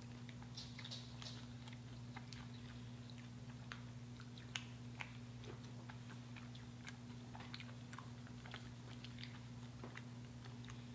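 A person chewing and crunching fast food close to the microphone, with scattered small crackles and bites, over a steady low electrical hum.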